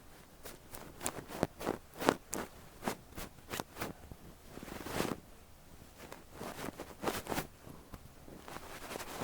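A fluffy down tip brushed over a microphone ear, giving soft rustling strokes in quick, irregular succession, with one longer sweep about five seconds in.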